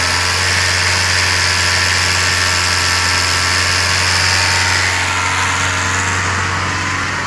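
Opel Y20DTH 2.0-litre four-cylinder turbodiesel engine idling steadily.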